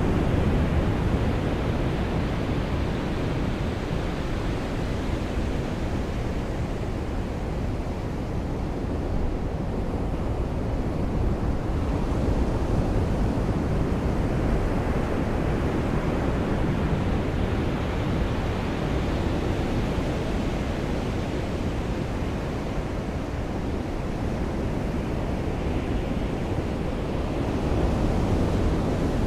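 Sea waves and rain: a steady rushing wash of surf that swells slowly, rising near the start and again near the end.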